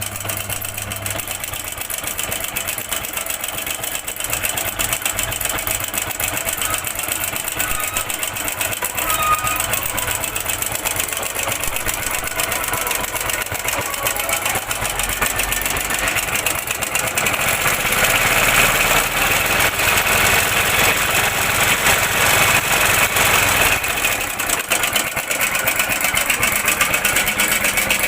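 Hero Honda Splendor Plus's single-cylinder four-stroke engine idling with a loud, fast metallic rattle from the timing chain, which the mechanic takes for a worn timing chain needing a complete replacement kit. The rattle grows louder for several seconds past the middle, then eases back.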